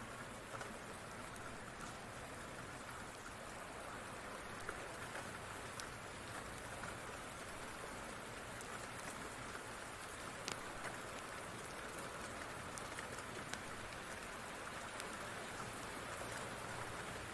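Steady rain falling, with a few scattered sharp clicks.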